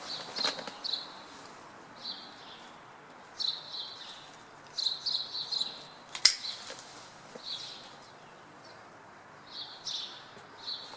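Small birds chirping in short clusters of quick, high notes, over a faint steady background hum. A single sharp click about six seconds in.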